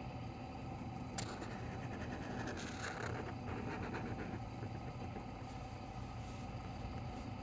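Steady low background hum, with a single sharp click about a second in and a brief scratchy rustle around three seconds in.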